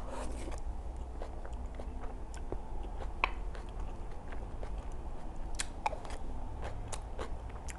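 Close-miked chewing of chewy rice cakes in cream sauce, with soft wet mouth sounds and a few sharp clicks scattered through it.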